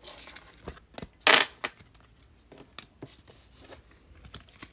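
Baseball trading cards being handled and flipped through: scattered small clicks and taps, with one louder, short brushing swish about a second in.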